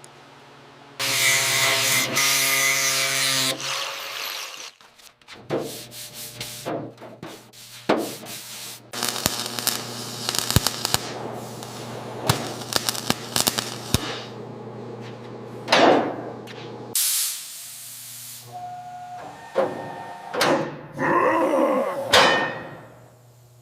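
A run of car-restoration workshop tool sounds: a power sanding tool whining and rasping, a steady motor hum under most of it, and scattered sharp knocks and clicks.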